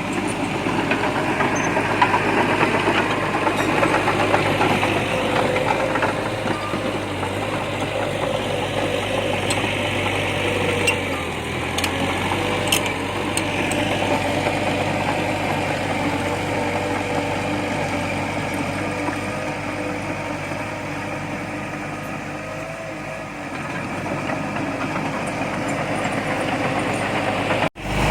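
Heavy earthmoving machine's diesel engine running steadily, with a few faint metallic clicks about halfway through; the sound cuts out briefly near the end.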